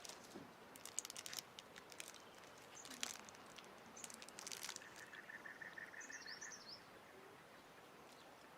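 Faint outdoor background ambience: scattered soft rustles and clicks, a faint pulsing insect-like trill about halfway through, and a few short high bird chirps soon after.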